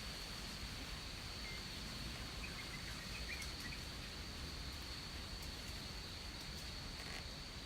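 Rainforest ambience: a steady high insect drone over a faint background hiss, with a few faint, short bird chirps between about one and a half and three and a half seconds in.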